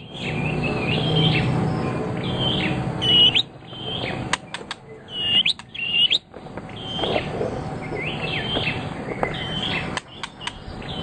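A songbird singing a run of short, repeated chirping phrases, broken by a few sharp ticks.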